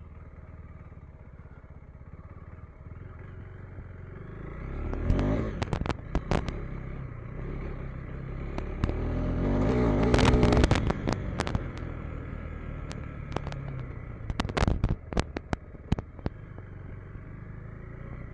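KTM 390 Enduro R single-cylinder dirt bike engine running on a trail ride, rising in revs about five seconds in and again, louder, around ten seconds in. Sharp clicks and knocks are scattered throughout.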